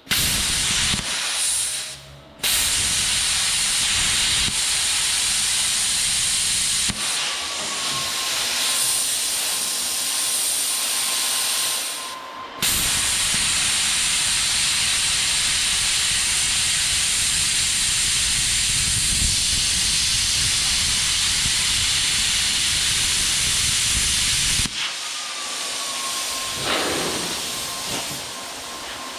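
Plasma cutter cutting into the leg of 3/8-inch steel angle iron: a loud steady hiss, broken by brief pauses about two seconds in and about twelve seconds in. It cuts off about five seconds before the end, leaving a quieter hiss.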